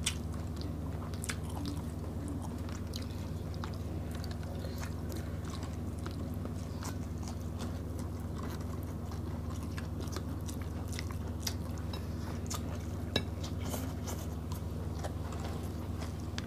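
Close-up chewing and mouth sounds of people eating smoked fish and rice by hand: scattered wet smacks and small clicks, with a sharper click about 13 seconds in. A steady low hum runs underneath.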